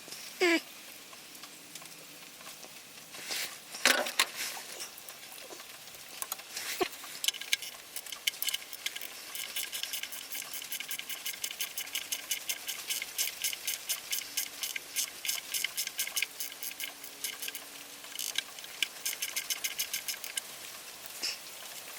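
Hand-tool work on a seized engine: a short squeak near the start and a few sharp knocks, then a long run of rapid, light clicking from about eight seconds in, like a socket ratchet being worked.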